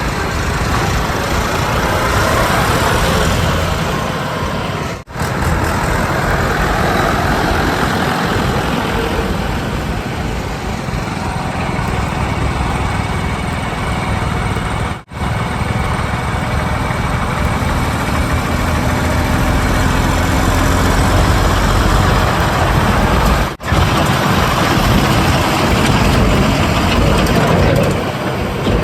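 Heavy diesel engines of earthmoving vehicles running steadily and loudly, with a deep low rumble. The sound cuts out briefly three times where the footage is spliced.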